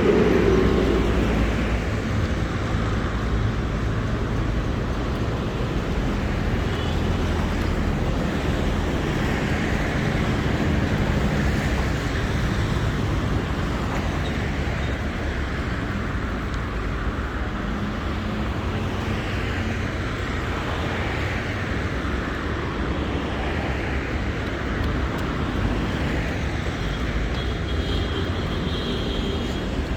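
Busy city-street traffic: motor vehicle engines running and passing in a continuous roar of road noise, a little louder in the first second.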